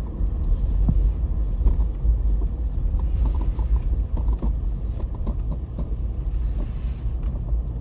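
Car driving, heard from inside the cabin: a steady low road rumble with frequent small creaks and knocks from the vehicle's body and interior.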